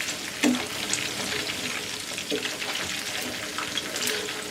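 Battered chicken pieces deep-frying in oil on medium-low heat, a steady sizzle with fine crackling, as the pieces are turned over midway through frying.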